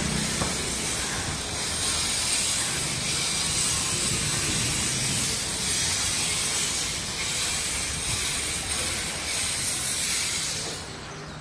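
Heavy rain falling: a steady hiss that drops away sharply near the end.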